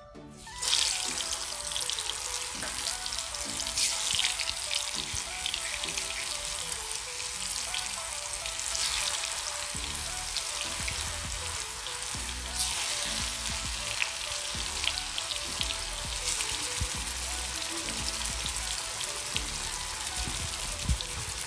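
Spice-marinated chicken pieces deep-frying in hot oil in a cast-iron kadai: the oil starts sizzling suddenly under a second in as the chicken goes in, then keeps up a loud, steady sizzle with scattered crackles. Background music plays underneath.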